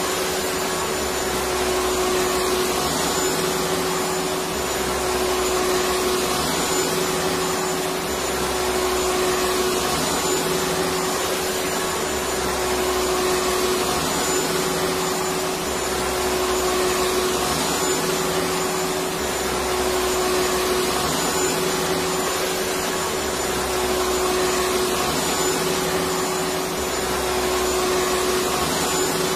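Electric vacuum cleaner running steadily, a continuous motor whine over dense rushing air with a slow, even rise and fall in the low end.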